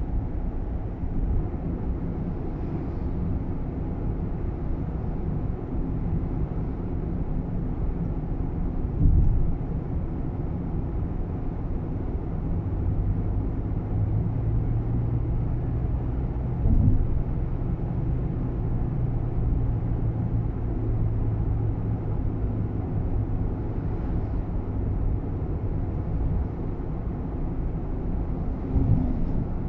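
Road and engine rumble inside a Nissan Roox kei car's cabin while driving, with a few single thumps over bumps. A steady low hum comes in a little under halfway and fades out near the end.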